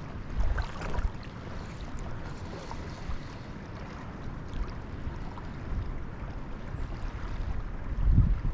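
Wind buffeting the microphone over the steady rush of river water, with a strong low gust near the end.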